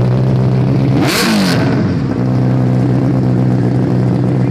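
Benelli 600 inline-four motorcycle engine idling through its exhaust, with one quick throttle blip about a second in before it settles back to a steady idle.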